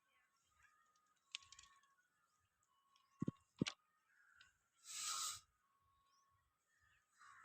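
Near silence broken by a few sharp clicks, two close together about three and a half seconds in, and a short hiss about five seconds in.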